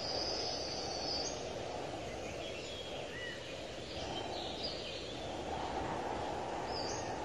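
Steady outdoor background noise with birds chirping now and then: a high call at the start, a few more in the middle, and one near the end.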